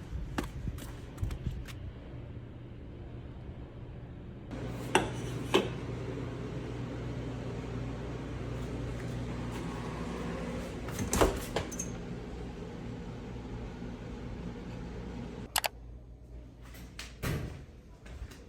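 A steady appliance hum that starts about four seconds in and cuts off suddenly about three seconds before the end, with a few sharp clicks and knocks of handling around it.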